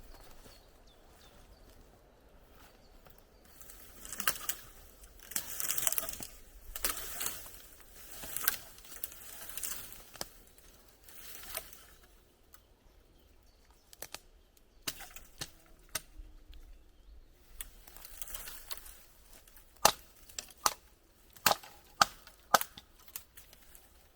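Branches and brush being handled, rustling and crackling in uneven spells, then about five sharp snaps close together near the end.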